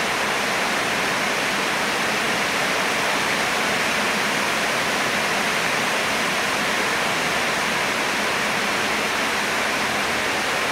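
Heavy rain falling, a steady even hiss that never lets up.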